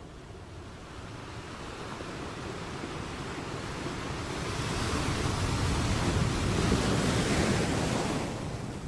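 Sea waves: a wave builds, rushes in and washes up, then ebbs away near the end.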